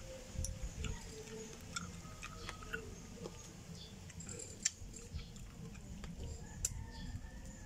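A person chewing cooked chicken feet, with small, irregular mouth clicks and smacks.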